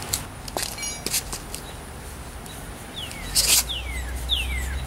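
A bird calling with a short whistle that slides down in pitch, repeated about every half-second from about three seconds in. A few light taps come in the first second and a half, and a brief loud rasp sounds about three and a half seconds in.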